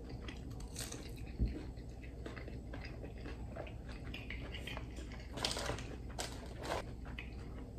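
A person chewing crispy fried chicken tenders, with soft crunching and small mouth clicks. A single soft thump about a second and a half in, and a few short paper rustles near the end as a hand goes into the paper takeout box.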